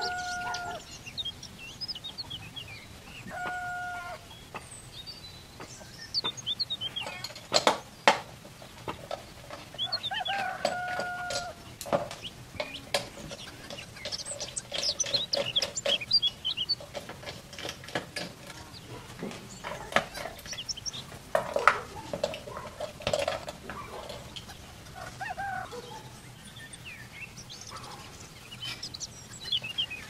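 Intermittent background bird calls, a few held notes and short chirps, over sharp clicks and taps of small metal parts and a screwdriver being handled on a tabletop.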